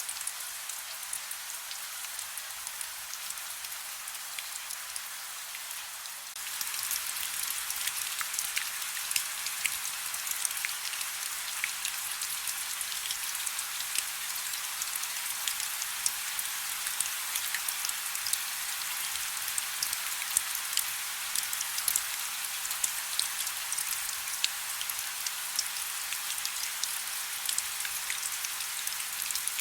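Soft rain falling steadily, with a constant hiss and many individual drops pattering. The rain gets louder about six seconds in and stays at that level.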